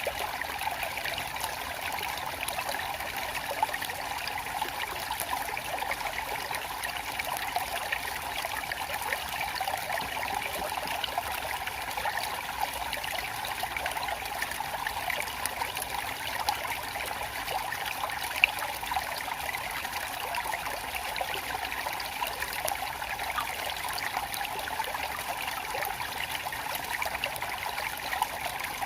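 Water flowing steadily over stones in a stream, a continuous babbling trickle with small splashes.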